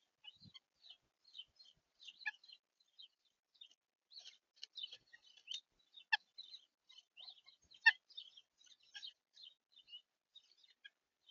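Small birds at a feeder giving many short, high chirps, one after another. Two sharper, louder clicks stand out about six and eight seconds in.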